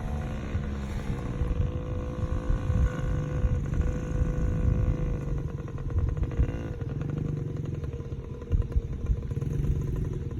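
Small Yamaha dirt bike engine running, its pitch rising and falling as the throttle is worked, with a few low thumps near the end.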